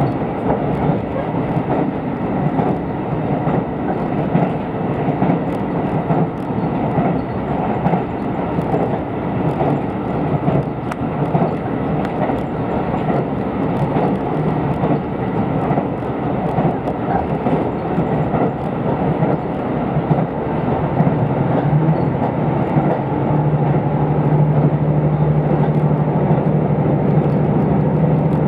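Running noise of the Rapid Mie train heard inside the passenger car: a steady rumble of wheels and running gear with faint ticks. About three-quarters of the way through, a steady low hum comes up and the noise grows a little louder.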